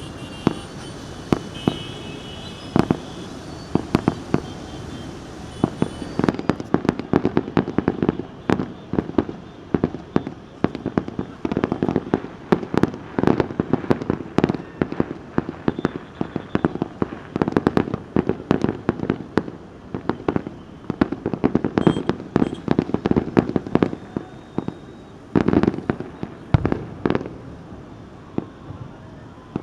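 Fireworks display: a dense run of sharp bangs and crackling reports, many per second, over a continuous rumble of explosions. It thins out near the end.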